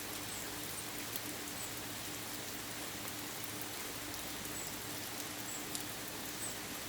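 Steady rain shower falling, an even hiss with scattered individual drops ticking. Short, faint, high-pitched squeaks or chirps recur every half second to a second over the rain.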